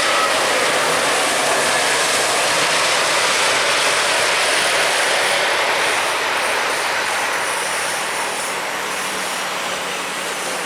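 Jet airliner's engines roaring loudly just after it passes close by. The roar eases slowly over the last few seconds.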